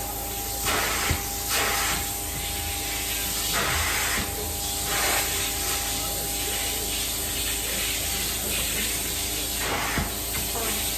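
Carpet-cleaning extraction wand spraying and sucking water, a steady hiss that swells and fades with each pass, over the constant hum of the extraction machine.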